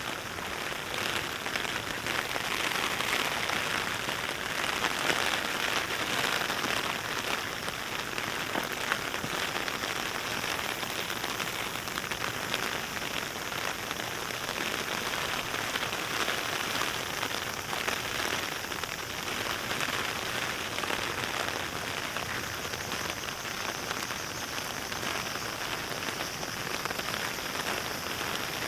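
Steady, fairly heavy rain: a dense, even patter of raindrops.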